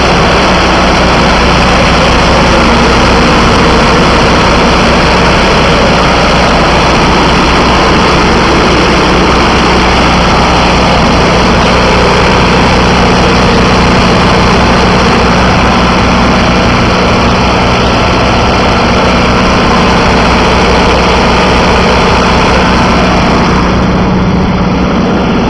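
Cummins 4BT3.3 four-cylinder diesel engine running steadily at idle.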